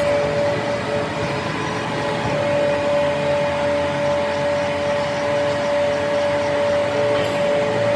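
A machine running steadily: a constant whine over a noisy rumble, with no pause.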